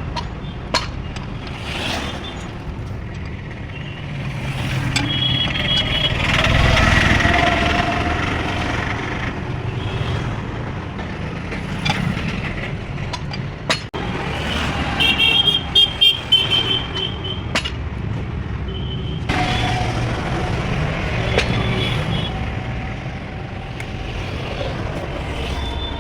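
Motor vehicle engines running with a steady low rumble that swells a few seconds in, broken by several short horn toots, most in a quick series around the middle.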